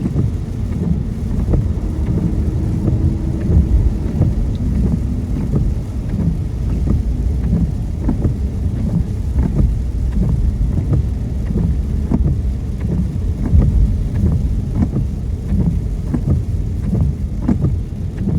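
Car driving in rain, heard from inside the cabin: a steady low road-and-engine rumble with raindrops ticking irregularly on the car.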